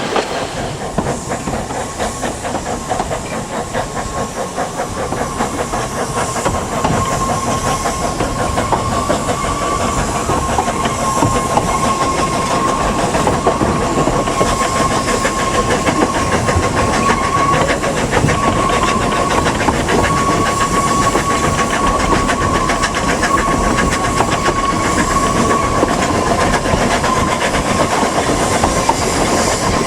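Narrow-gauge train running along the line, with a steady clatter and hiss. A thin, steady high-pitched tone runs through most of it and fades out near the end, and the sound grows a little louder over the first several seconds.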